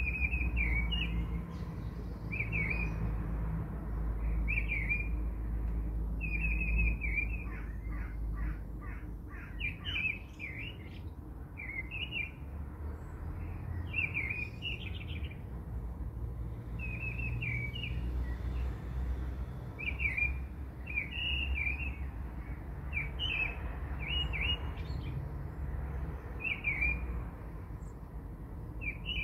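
Birds chirping with short, repeated high calls and one quick trill partway through, over a steady low rumble.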